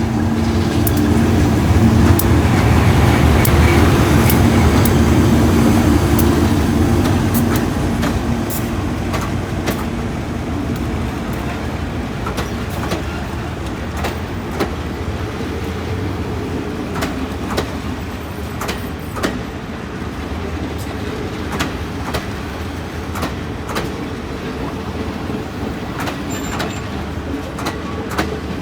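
Diesel locomotive engine running, loudest a few seconds in and then fading, with many sharp clicks and knocks from the train's running gear throughout.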